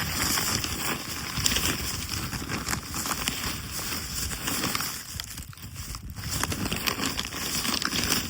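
Irregular crackling with scattered clicks and knocks.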